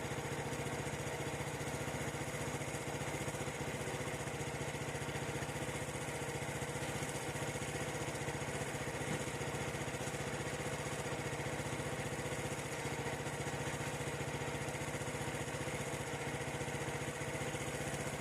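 SYM Wolf motorcycle's single-cylinder engine running steadily at an even speed, recorded for an abnormal noise (異音) whose cause is not identified.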